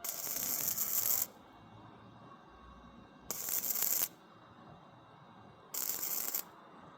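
Electric arc welder laying short tack welds: three bursts of crackling hiss, the first about a second long and two shorter ones near the middle and end, with quiet gaps between.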